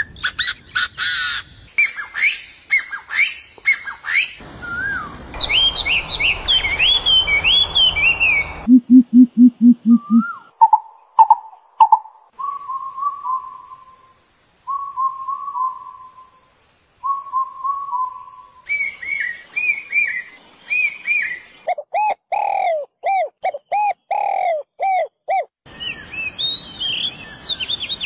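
Bird calls and chirps in a chain of abruptly cut segments: quick chirps at first, a short run of low rapid pulses about nine seconds in, then short whistled phrases repeated several times, and chirping again toward the end.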